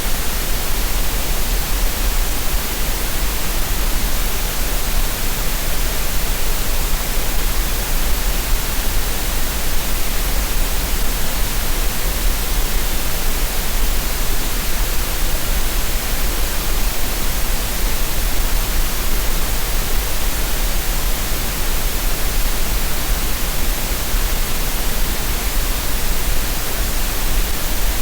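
Continuous green noise, a steady, even hiss with a strong low rumble underneath and no changes at all. It is played as a masking sound for tinnitus relief and relaxation.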